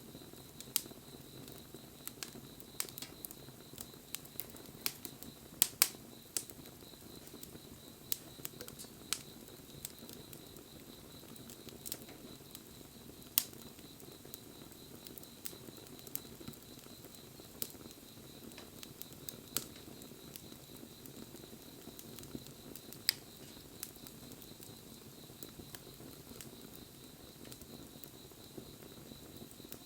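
Wood fire crackling: irregular sharp pops and snaps, a few louder ones about six seconds in and again later, over a low steady rush of burning. A faint steady high tone runs underneath.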